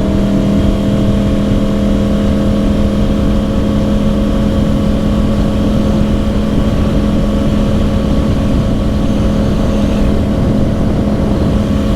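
2010 Yamaha R1's crossplane inline-four running through dual Yoshimura exhausts under way at a steady cruise, its engine note holding one even pitch.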